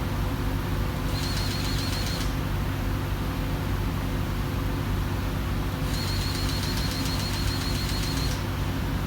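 A steady low engine hum, with a high warbling chirp heard twice over it: once briefly about a second in, then for about two and a half seconds near the end.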